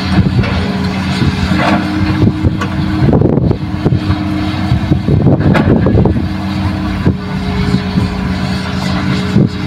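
Heavy diesel machinery running at a steady pitch, with irregular knocks and rattles through it as an excavator loads a dump truck with soil.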